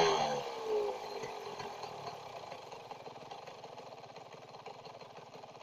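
TM Racing MX144 two-stroke motocross engine dropping back from a rev, its pitch falling in the first second, then idling quietly with a fast, even popping beat.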